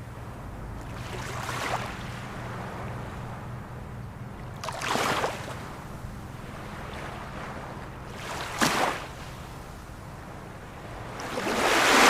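Ocean waves breaking, one rushing surge every three to four seconds, the biggest near the end.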